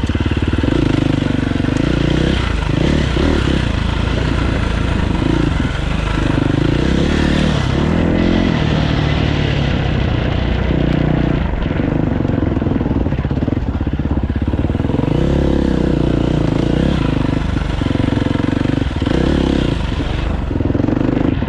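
Dirt bike engine being ridden on trail, its pitch rising and falling over and over as the throttle is opened and closed every second or two, over a steady rushing noise.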